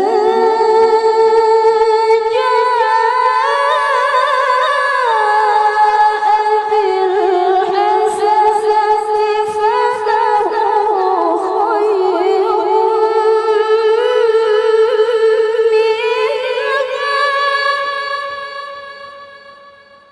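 A woman's high, clear voice in melodic Quran recitation (tilawah), drawing out a single long ornamented phrase. The pitch steps up twice early on, sinks through the middle and climbs again. The voice trails off over the last few seconds.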